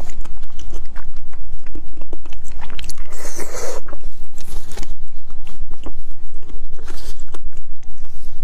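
Close-miked wet chewing and lip-smacking on braised beef bone marrow, with small clicks of a metal spoon scraping inside the bone. There is a louder, longer wet noise about three seconds in, over a steady low hum.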